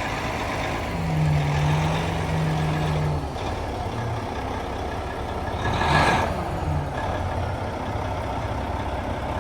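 Mack MP8 straight-six diesel in a 2009 Mack GU713 dump truck running steadily, the engine note swelling briefly about a second in. A short hiss of released air from the truck's air system comes a little past halfway through.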